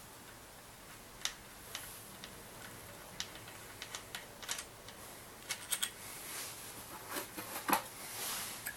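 Irregular light metallic clicks and taps of hand tools and loosened engine parts being handled while taking out the camshaft, growing busier in the second half, with a brief scrape near the end.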